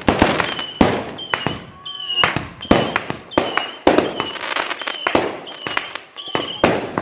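Fireworks going off in quick succession: a string of sharp bangs roughly every half second, many of them preceded by a brief high whistle.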